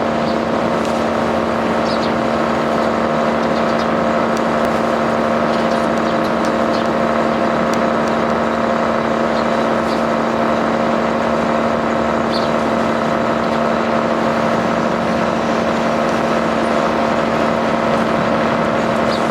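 A steady motor hum at one constant pitch, with a few short, faint chirps from Eurasian tree sparrows now and then.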